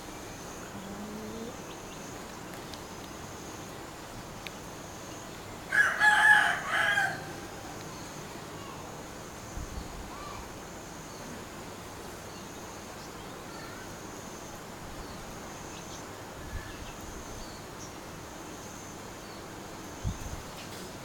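A rooster crowing once, about six seconds in, a loud call of about a second and a half.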